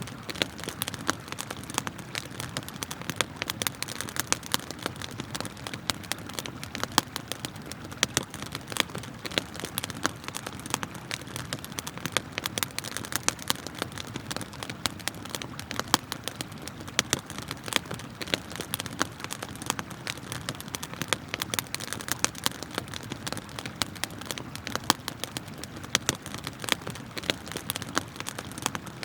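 Wood campfire crackling, with many sharp irregular pops and snaps, over the steady rush of a flowing river.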